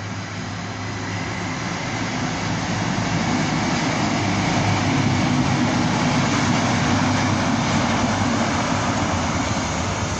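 Diesel engine and wheels of a Great Western Railway Class 43 HST power car and its coaches passing close by along the platform. The sound grows steadily to its loudest about five to seven seconds in as the power car goes by, then eases slightly as the coaches follow.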